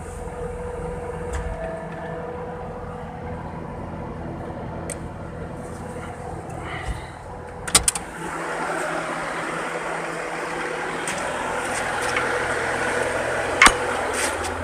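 Heavy diesel machinery running steadily with a held whine. About halfway through come a few sharp metallic clanks, after which a rushing hiss takes over from the low rumble. Another clank comes near the end.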